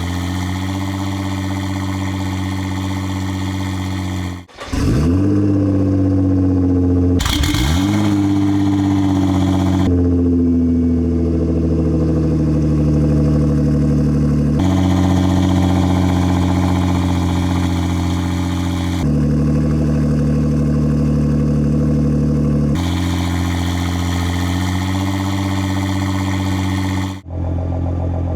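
Nissan GT-R R35's twin-turbo V6 running through aftermarket HKS and Armytrix exhausts at a fast cold-start idle. Twice, about five and seven seconds in, the engine starts up with a sharp flare of revs that settles back to a steady high idle. The exhaust tone changes abruptly every few seconds.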